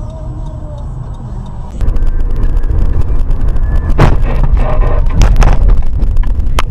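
Car driving, heard from inside: a steady low rumble of engine and road noise. About two seconds in it jumps much louder, with crackling and a few sharp knocks around the middle.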